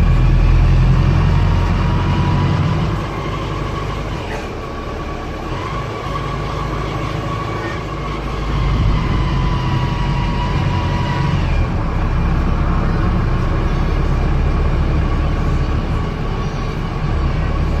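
Wright StreetDeck double-decker bus heard from on board, its Daimler OM934 four-cylinder diesel running under a loud high whining, grinding noise. It eases off about three seconds in and picks up again at around nine seconds as the bus pulls away.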